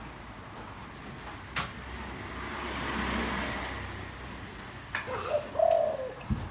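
Spotted dove cooing: a short arched call near the end, the loudest sound here. Before it, a passing vehicle swells and fades, with a single click about a second and a half in.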